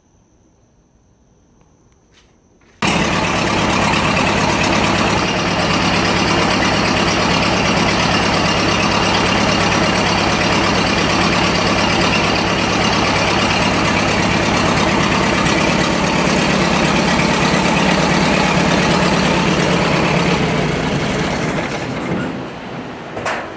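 A 1925 Ford Model T's four-cylinder engine running steadily, coming in abruptly about three seconds in and dying down near the end.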